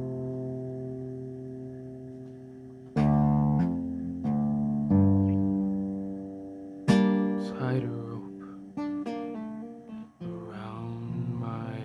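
Acoustic guitar playing a slow instrumental passage. A chord rings and fades, then chords are plucked one at a time from about three seconds in, with a quicker run of picked notes past the middle.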